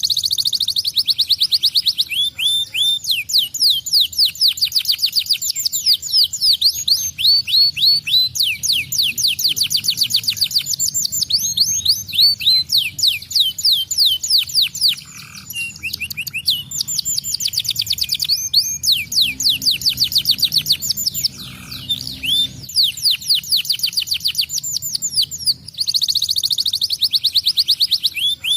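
Domestic canary in full, continuous song: long runs of rapid trills and quickly repeated sweeping notes, broken by a few short pauses.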